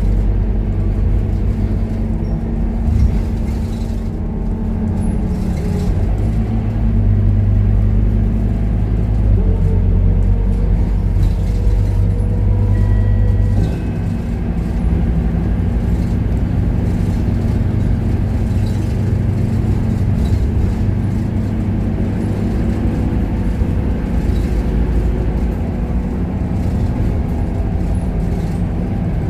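Scania K230UB city bus's 9-litre five-cylinder diesel engine running while the bus drives along, heard on board. It is louder for a stretch, then drops back about halfway through.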